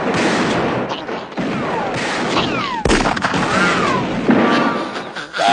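Cowboy-style gunfire: repeated shots with falling whistling whines among them, and one sharp crack about three seconds in.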